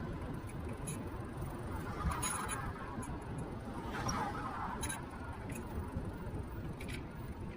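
Ride noise from a moving Niu KQi3 Pro electric scooter heard through its handlebar-mounted action camera: a steady low rumble of wind and road, broken by a few sharp clicks and rattles. Two brief swells of hiss come about two and four seconds in.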